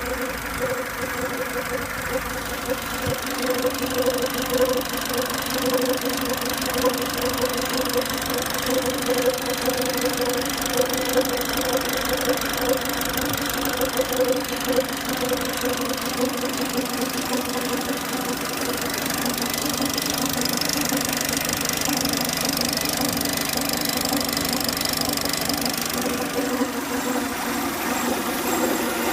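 Peugeot 307 engine running with an abnormal extraneous noise, the fault the recording sets out to show. Irregular louder peaks come through over the first half, and the sound settles steadier later on.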